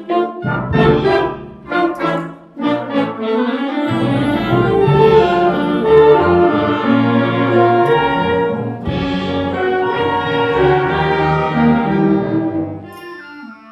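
School band playing a holiday piece with brass prominent: short repeated chords at the start, then full sustained chords, thinning to a quieter, sparser passage near the end.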